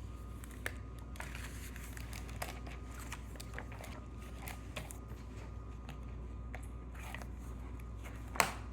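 Light paper rustling and scattered soft clicks from a picture book's pages being handled, with a sharper click near the end, over a low steady hum.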